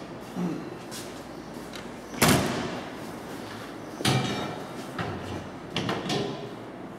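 Doors on a fire engine being shut: a series of slams and thuds, the loudest about two seconds in, with more about four and six seconds in.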